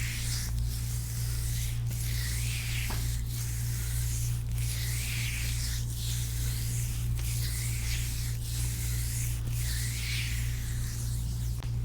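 Hands stroking and rubbing the skin of a foot in a steady rhythm, about one swishing stroke every second or so, picked up close by wrist-worn microphones, over a steady low hum.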